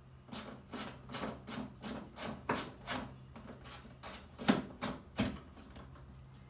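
Hand-tool work on a car's brake, clutch or fuel lines: a run of short rasping strokes, about two to three a second, broken by a few louder knocks in the middle and later on.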